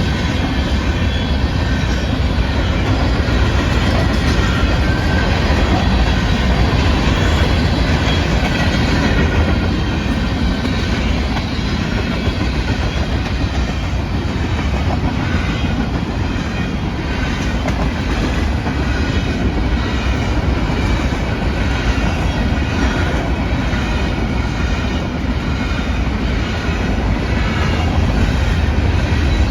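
Freight cars of a manifest train rolling past, with a steady heavy rumble and wheels clicking over rail joints.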